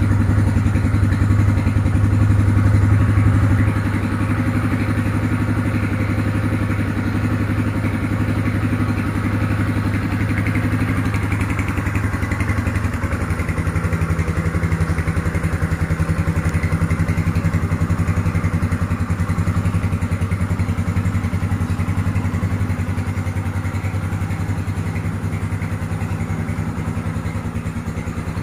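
Yamaha Scorpio Z's single-cylinder four-stroke engine idling steadily just after start-up, a little louder for the first few seconds and then settling into an even idle.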